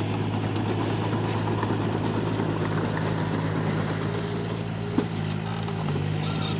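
Komatsu D31P crawler bulldozer's diesel engine running steadily, with one sharp click about five seconds in.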